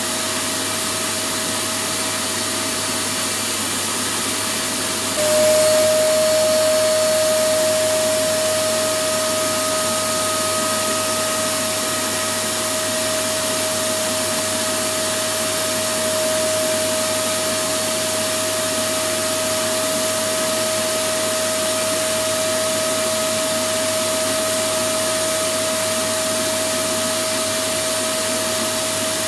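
Electric vacuum cleaner running continuously: a steady rushing noise with a constant motor whine. About five seconds in it gets abruptly louder, then eases back over the next few seconds to a steady run.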